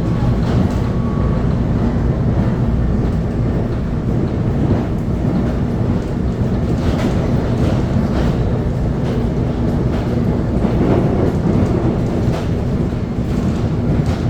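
Electric commuter train running along the line: a steady, loud rumble of wheels on rails, with a few faint clicks from the wheels.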